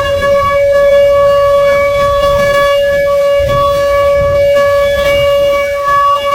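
Outdoor public warning siren, the kind sounded as a tsunami alert, holding one long steady wail at its top pitch over a low rumbling noise.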